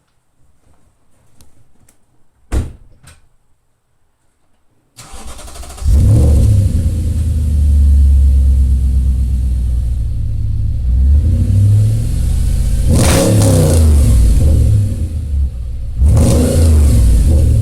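A few clicks, then the Audi B7 RS4's 4.2-litre V8 starts about five seconds in and settles into a loud, deep idle through an exhaust with the centre resonator replaced by straight pipes and the exhaust valves open. It is revved twice, briefly, near the end.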